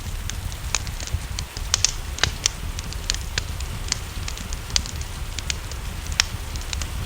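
Wood fire crackling, with irregular sharp pops several times a second, over a steady low rumble of rain.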